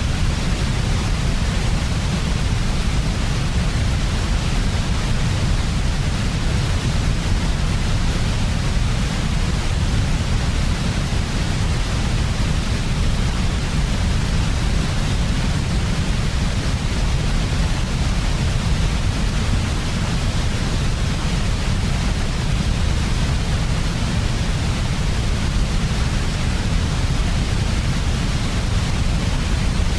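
Steady white noise for sleep: an even, unchanging hiss over a strong deep rumble, with no breaks or events.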